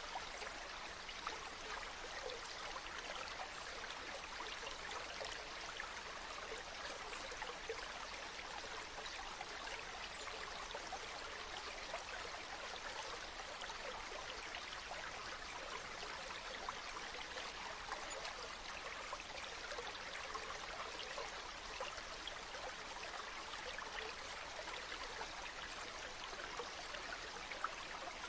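Stream water running steadily, with a few brief slightly louder splashes.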